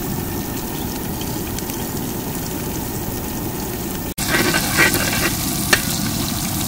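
Onions, tomatoes and chillies frying in oil in a wide aluminium pot as fennel seeds go in, with a steady low rushing noise for the first four seconds. After a sudden brief cut-out the sizzling turns brighter and crackly, with the clicks of a slotted metal spoon against the pot.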